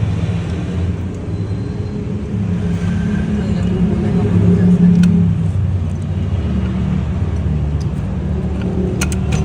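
Car engine running steadily, growing a little louder about four to five seconds in. A few sharp clicks come near the end.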